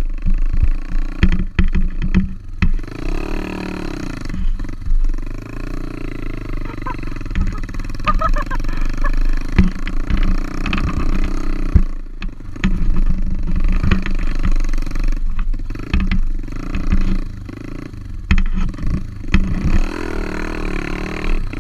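Pit bike's single-cylinder four-stroke engine running under way, revs rising and falling, with frequent short knocks.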